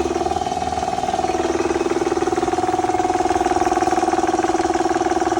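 Restored old air compressor running, a steady hum with a fast, even pulsing.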